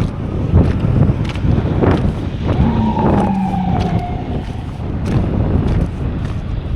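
Wind buffeting the microphone with a low rumble, over which an emergency vehicle siren's wail falls once in pitch about two and a half seconds in.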